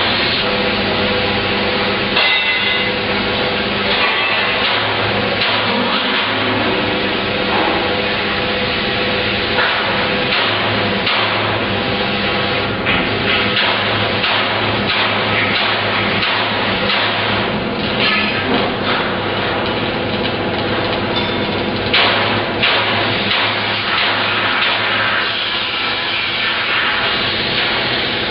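Fabrication workshop noise: repeated hammer blows and other knocks over a steady machinery hum.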